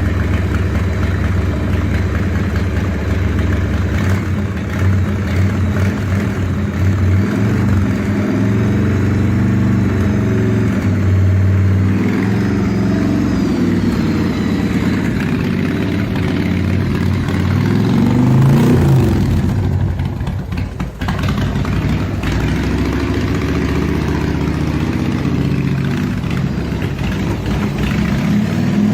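Harley-Davidson Sportster 1200's air-cooled V-twin running through loud pipes, mostly at a steady idle. It is revved up once about two-thirds of the way through, then drops back to idle.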